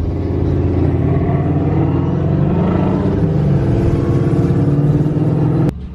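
Car engine running loud with a deep exhaust note and slight rises and falls in revs; it stops abruptly near the end.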